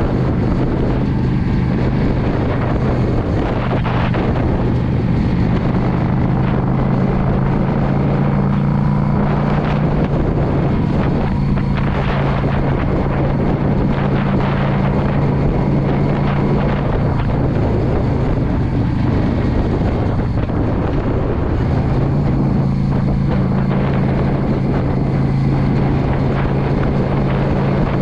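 The air-cooled V-twin engine of a 2016 Yamaha V Star 650 cruiser runs steadily under way, its note shifting a little a few times, with wind rushing over the microphone.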